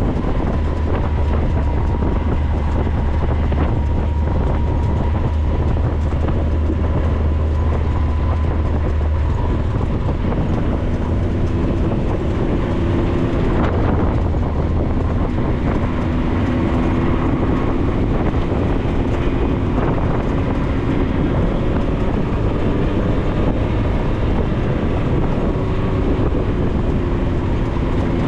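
A 4x4's engine and drivetrain running steadily while driving over a rough dirt road, with a few knocks from bumps. A deep hum drops away about nine seconds in and the engine note wanders up and down after that.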